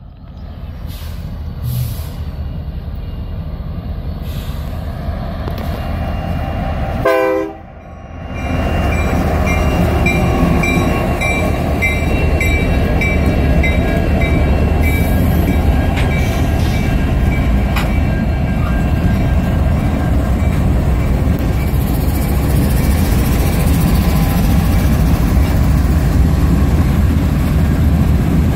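Diesel freight train passing close: a short horn blast about seven seconds in, then the heavy, steady rumble of Norfolk Southern locomotives' engines and wheels going by.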